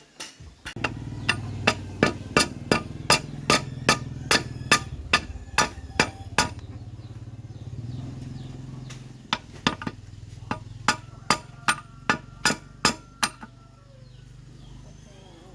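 Metal being struck with a hammer in quick, even blows, about three a second, in two runs with a pause of a few seconds between them. A steady low hum runs underneath the blows.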